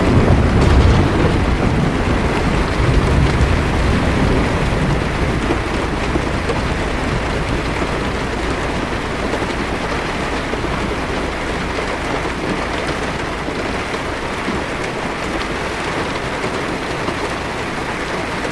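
Heavy rain falling steadily on a car's roof and windshield, with a low rumble of thunder that starts right at the beginning and fades away over about five seconds.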